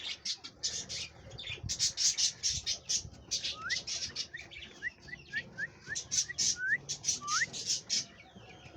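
Parrots chirping in quick, sharp calls, with a run of about ten short rising whistles in the middle.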